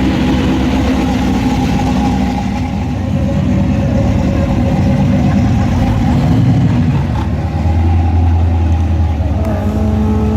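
Muscle car's V8 engine running loud and steady, close to idle, with no big revs. The engine note changes about seven seconds in, when a deeper low hum comes in.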